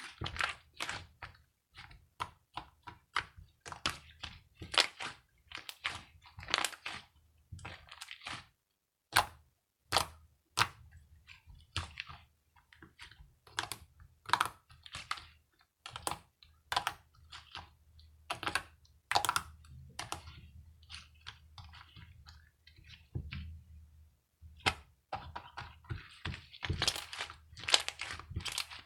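Slime being squeezed and pressed by hand, giving irregular sharp clicking pops and crackles, several a second.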